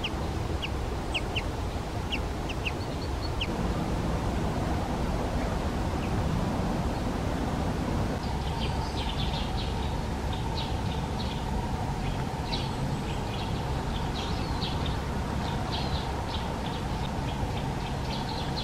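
Short, sharp bird calls: a handful in the first few seconds, then a denser run of chirps from about halfway through, over a steady low background rumble.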